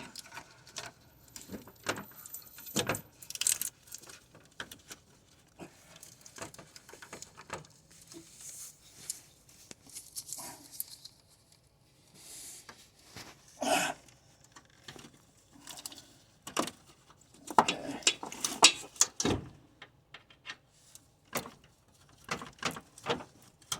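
Hands working radiator hose fittings and their clips: scattered clicks, taps and rattles of plastic and metal parts being handled, thickest in a cluster of knocks near the end.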